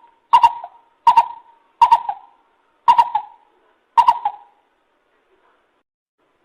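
Lesser coucal calling: five hollow notes about a second apart, each opening with a sharp click-like start, then falling silent about four and a half seconds in.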